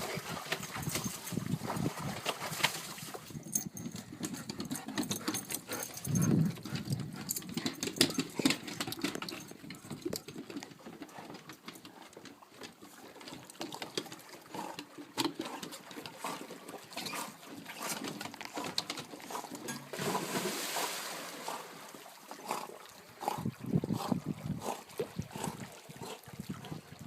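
Dogs splashing and moving through lake water, with irregular splashes and patter.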